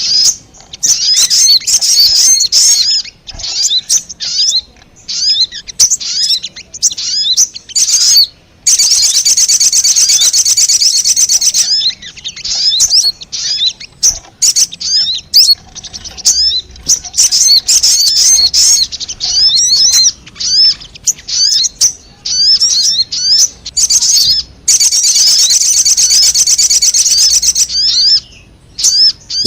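Sogon bird calls in a lure recording: rapid high-pitched chirps and twitters, broken by two long stretches of fast unbroken trilling, one about a third of the way in and one near the end.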